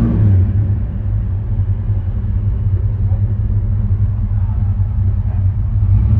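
Classic American V8 car engine running while being driven, a steady low rumble.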